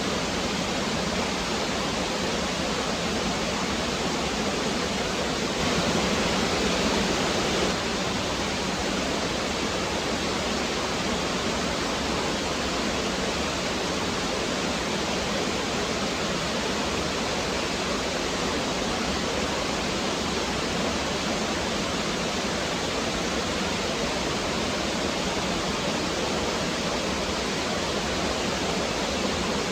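Woodland stream rushing steadily over rocks, swelling slightly about six seconds in for a couple of seconds.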